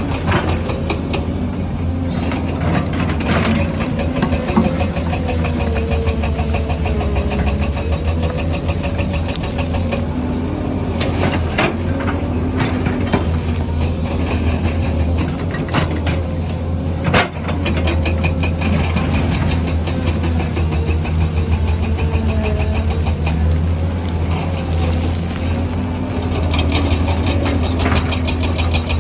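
Excavator's diesel engine running steadily, with a faint wavering hydraulic whine and a few sharp knocks, the loudest about 17 seconds in.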